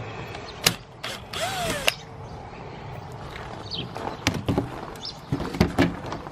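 RV furnace parts being handled during disassembly: a few sharp metallic clicks and knocks, with a brief scraping creak about a second and a half in.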